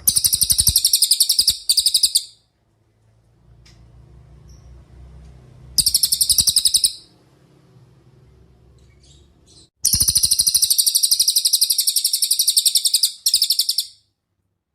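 Cililin song: three loud bursts of very fast, rattling trills of high notes. The first comes at the start, a short one comes near the middle, and a long one of about four seconds comes near the end.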